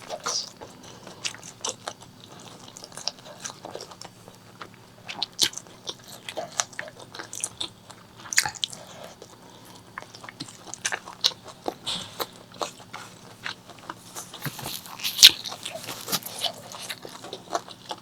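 Close-miked eating of pork leg curry with rice: wet chewing and smacking with many sharp mouth clicks, coming thickest near the end.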